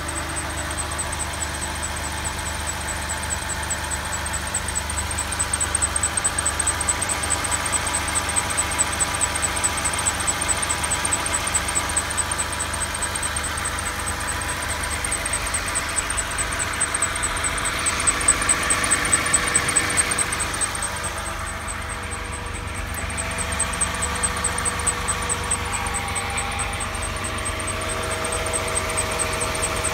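The 3.5-litre V6 of a 2012 Lexus RX350 idling cold, with a fast, steady, high-pitched squeak repeating over and over. The owner puts the squeak down to the drive belt.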